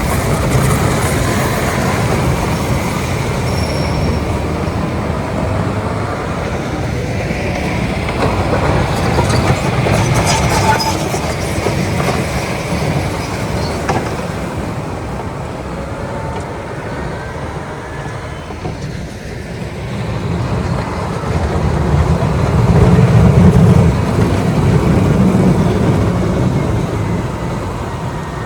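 Motor graders at work clearing snow: heavy diesel engines running under load while their steel blades scrape and push snow along the pavement. It gets louder near the end as a machine comes close.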